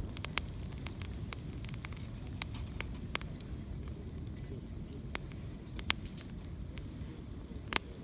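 Wood campfire crackling, with irregular sharp pops of burning wood, the loudest near the end, over a steady low rumble.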